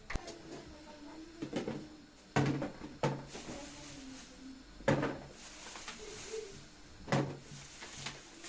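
Cupboards being opened and shut by hand: a series of about six knocks and clunks, each ringing briefly, the loudest about two and a half and five seconds in.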